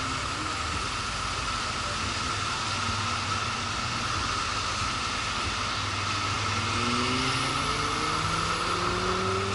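Motorcycle riding along with steady wind and road noise. About two-thirds of the way through, its engine note rises as it accelerates.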